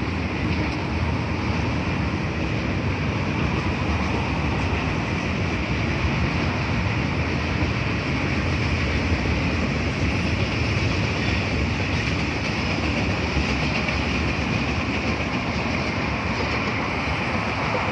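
A train's cars rolling past on the rails, a steady unbroken noise of wheels on track.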